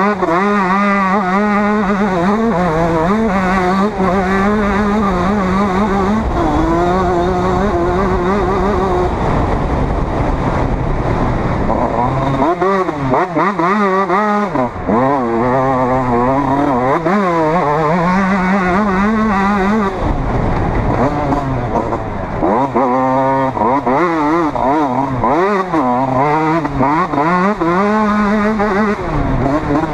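Motocross bike engine revving hard and easing off over and over as the rider works the throttle and shifts gears, its pitch climbing and dropping every second or two.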